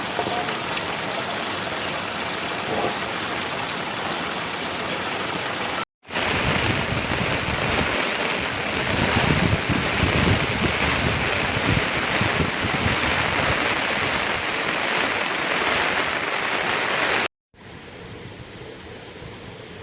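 Heavy rain falling, a steady rushing hiss, in three stretches broken by sudden cuts: the middle one, about 6 to 17 seconds in, louder with a gusting low rumble, the last one much quieter.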